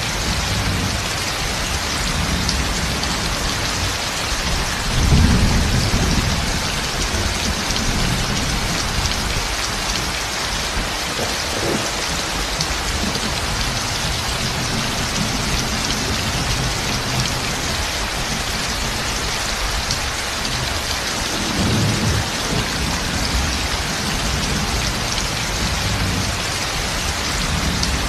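Heavy rain pouring steadily onto a roof, a dense even hiss, with low rolls of thunder, the loudest about five seconds in and a softer one some twenty seconds in.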